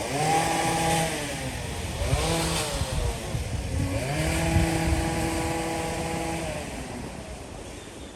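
A vehicle engine in street traffic revs up, holds and eases off three times, the last and longest rev running for about two seconds.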